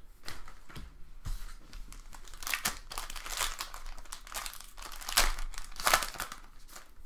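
A 2017 Panini Optic football card pack's wrapper being torn open and crinkled, in irregular crackles that are loudest a little after two seconds in, around five seconds and near six seconds.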